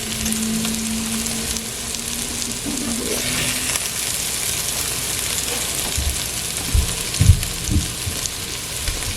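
Sliced okra frying in vegetable oil in a pot on low heat, a steady sizzle, nearly done and browned. A few short low knocks come about six to eight seconds in.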